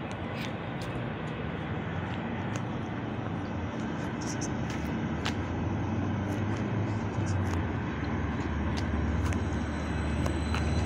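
A train approaching: a low rumble that grows steadily louder, with a few faint clicks over it.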